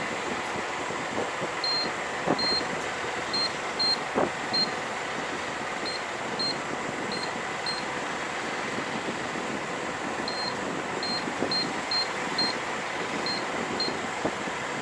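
Fuel pump keypad beeping as buttons are pressed: about sixteen short, high beeps at irregular intervals while a code and answers to prompts are typed in. A steady hum runs underneath.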